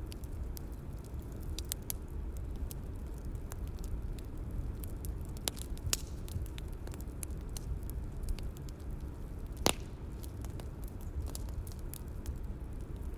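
Bonfire ambience: a steady low rumble of burning wood with scattered sharp crackles and pops, one louder pop near ten seconds in.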